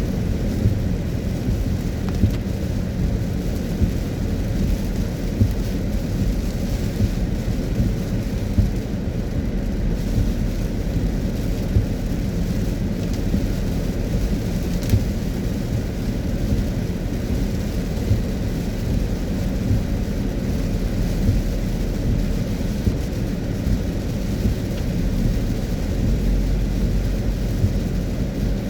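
A car driving in the rain: a steady low rumble from the road and engine, with frequent small irregular ticks of raindrops striking the car.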